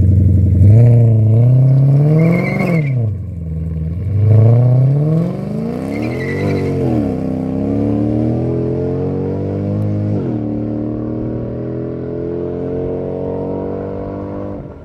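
Mercedes-Benz C63 AMG's naturally aspirated 6.2 V8 with a straight-through full exhaust, accelerating hard from a standstill. The pitch climbs and drops sharply at each upshift, about three times, and the sound grows fainter as the car pulls away.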